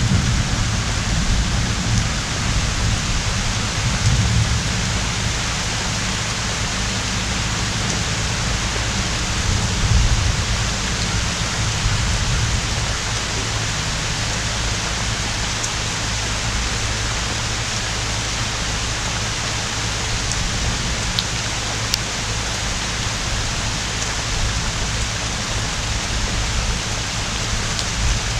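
Heavy rain pouring steadily, with thunder rumbling low through the first ten seconds or so and then dying away.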